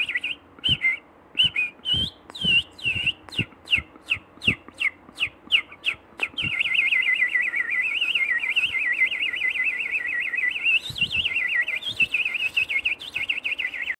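Songbird singing: a run of short, sharp chirps, each falling in pitch, coming faster and faster, then about six seconds in a continuous rapid warbling trill that wavers up and down.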